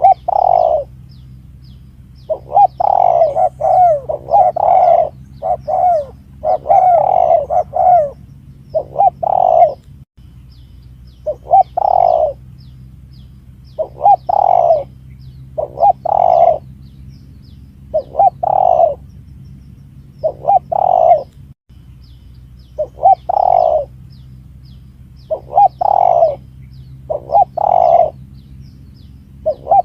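Spotted dove (tekukur) cooing over and over as a recorded lure call, in short repeated phrases about every one to two seconds, denser in the first several seconds. A steady low hum runs beneath and drops out for an instant twice.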